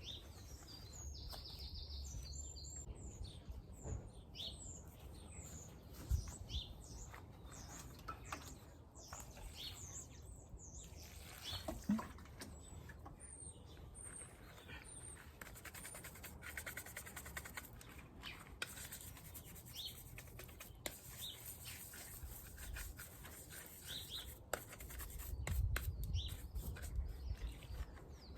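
Small garden birds chirping and singing in many short, high calls, with faint rubbing or handling noise and a couple of knocks about six and twelve seconds in.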